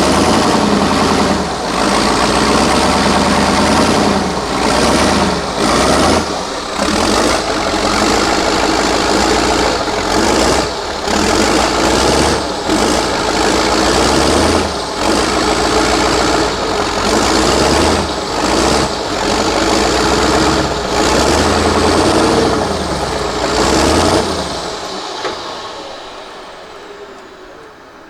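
Heavy off-road trial truck's diesel engine running loud, its revs rising and dropping again and again, then fading away over the last few seconds.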